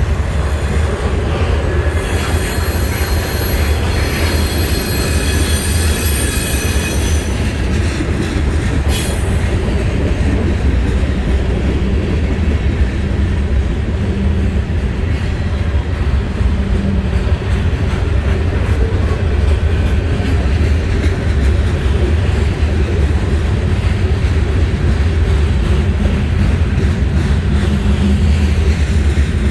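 Freight cars of a CSX manifest train rolling past: a loud, steady rumble of steel wheels on rail, with clacking over the rail joints. From about two to seven seconds in, a high-pitched squeal of several ringing tones rises over the rumble.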